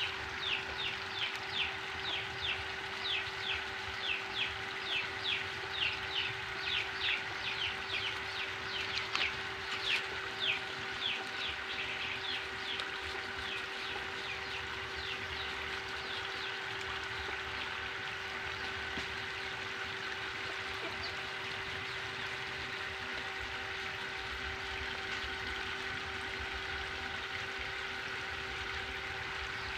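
A bird calling in a long, even series of short high chirps, about two a second, fading out about halfway through, over a steady low hum.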